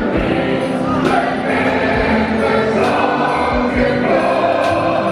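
A group of people singing a Christmas carol together, many voices at once.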